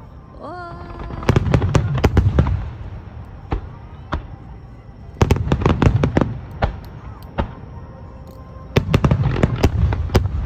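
Fireworks shells bursting overhead in three rapid volleys of sharp bangs, with a low rumble between the volleys.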